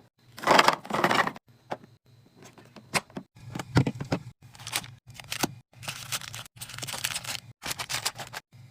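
Food packaging and containers being handled: a series of short crinkling and tearing bursts of plastic, mixed with sharp clicks and light knocks as items are set down.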